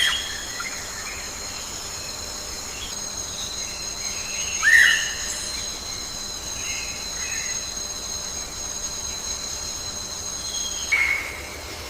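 Rainforest insects keep up a steady, shrill trilling drone that stops about eleven seconds in. Short bird calls sound over it: one at the start, a louder one falling in pitch about five seconds in, and another as the drone ends.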